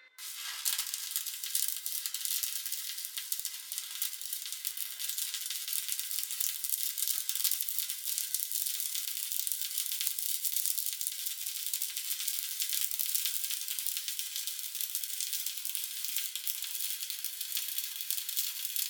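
Stick (SMAW) welding arc burning on steel, a steady dense crackle struck right at the start and held without a break as a bead is run.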